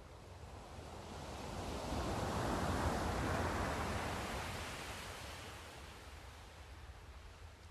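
Sea surf: a single wave washes in, its hiss swelling to a peak midway and then draining away, over a steady low rumble.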